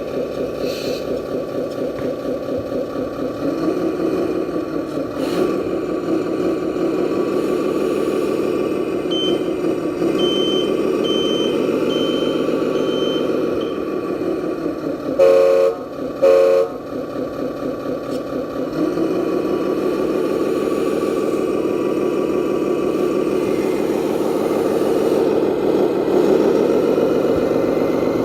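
RC Scania dump truck's diesel engine sound running, with a few rises in revs. Partway through, a reversing alarm beeps about five times at roughly one beep a second, then two short horn blasts sound.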